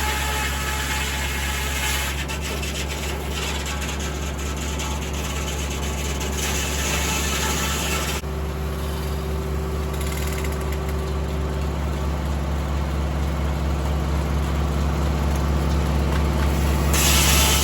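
Tractor engine running at a steady speed, a low, even drone.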